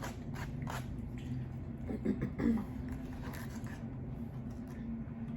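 Close-miked chewing of lo mein noodles: short wet smacking clicks, with a brief louder mouth sound about two seconds in, over a steady low hum.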